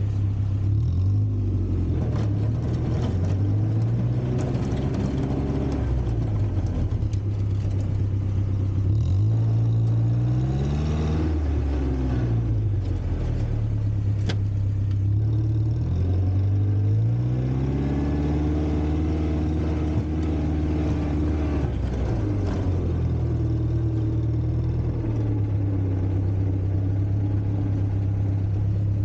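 Volvo four-cylinder gasoline engine of a 1960s Kalmar baggage tractor running under varying load, its revs rising and falling several times: up around ten seconds in, down again, then held high for several seconds past the middle before dropping back.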